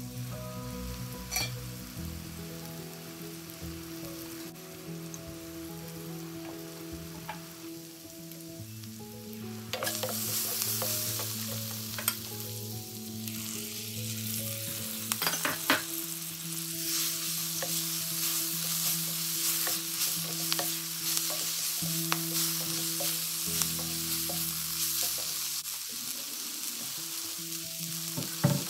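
Chopped onions and spices sizzling on low heat in a stainless steel wok. The sizzle grows louder about ten seconds in, as fresh moringa leaves go into the hot pan. Later there are scattered clicks and scrapes as a wooden spatula stirs the leaves against the steel.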